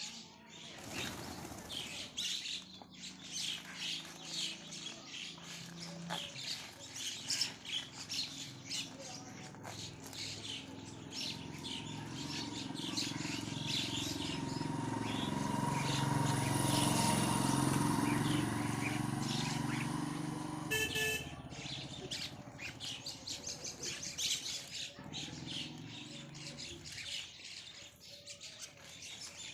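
Baby birds chirping rapidly and without pause. Partway through, a low rumble swells up and then fades, and a short pitched call sounds just as it ends.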